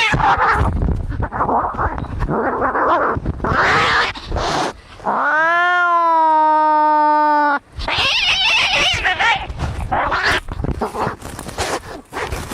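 Cats fighting: harsh, noisy snarling and spitting, broken about five seconds in by one long, drawn-out yowl that sags slightly in pitch, then more snarling.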